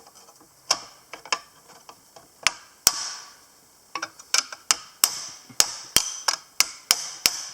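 Sharp metallic taps and knocks on the tractor's seat mechanism as it is worked apart. A few strikes are spaced out at first, then a quicker run of about three a second begins about halfway through.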